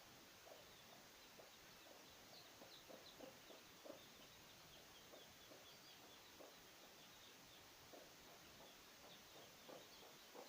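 Faint, scattered peeping of newly hatched Aseel chicks, many short high chirps.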